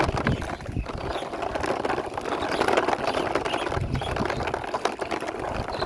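A small plastic toy bike pushed by hand along a wall, its wheels rolling and rattling with a steady scraping sound, broken by a few low thumps.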